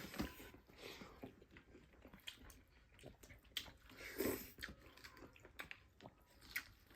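Faint close-up eating sounds: chewing and biting, with irregular small crunches and mouth clicks and a slightly louder bite about four seconds in.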